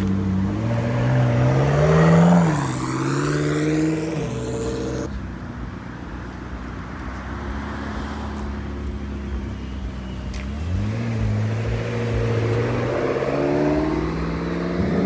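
Sports car engines revving and pulling away. The pitch climbs over the first couple of seconds and then drops. A steadier engine note follows, and another car accelerates from about eleven seconds in.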